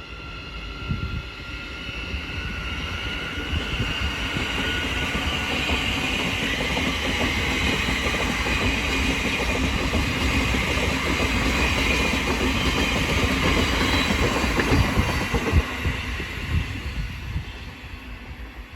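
A Thameslink Class 700 electric multiple unit pulls out of the station and runs past. Its running noise builds steadily to a peak about three-quarters of the way through, then fades near the end.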